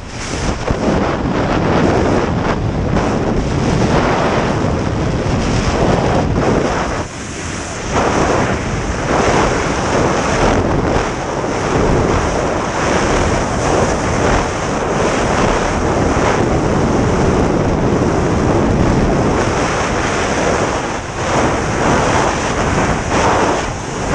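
Rushing air from the skydive buffeting the camera microphone: a loud, steady wind roar that rises and falls in gusts, easing briefly about seven seconds in.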